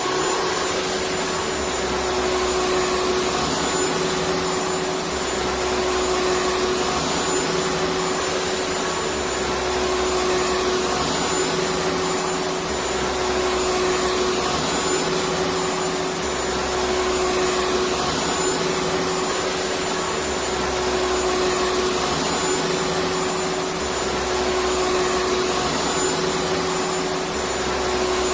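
Vacuum cleaner running steadily: an even rushing noise with a constant motor hum, unbroken throughout.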